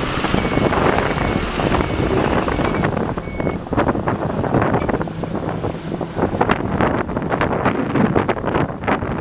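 Truck reversing alarm beeping a bit under a second apart over the low running of its engine, stopping about three and a half seconds in. After that, wind buffets the microphone.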